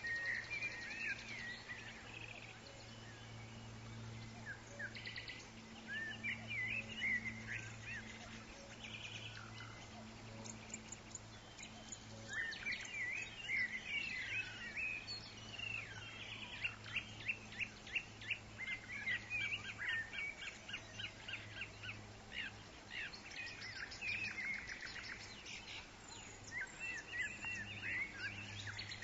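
Several forest birds calling and singing at once: quick series of short chirps and trills, thickest in the second half, over a steady low hum.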